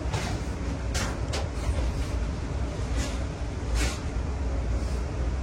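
Inside a passenger train car: a steady low rumble of the train running on the rails, with about five short sharp clacks or rattles over it.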